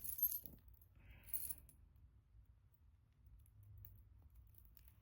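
Pieces of costume jewelry clinking together as they are handled, a few light clinks and a short rattle in the first second and a half, then only a faint low hum.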